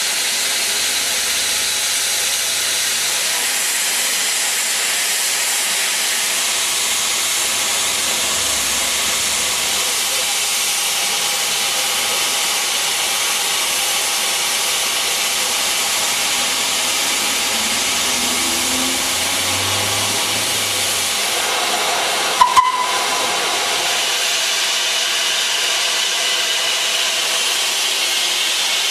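Steam hissing steadily from the class G2 0-8-0 'Super D' steam locomotive as it blows off. About three-quarters of the way through there are two sharp knocks close together.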